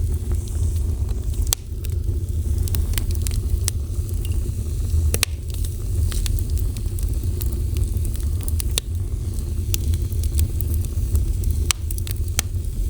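Fire burning, with a steady low roar and frequent sharp crackles and pops scattered irregularly throughout.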